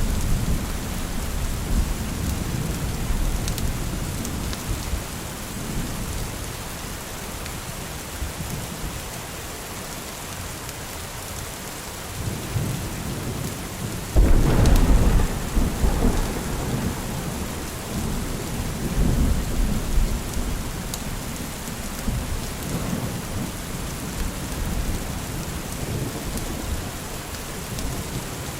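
Steady rain with rolling thunder. About halfway through, a sudden, louder thunderclap breaks in, then rumbles away under the rain.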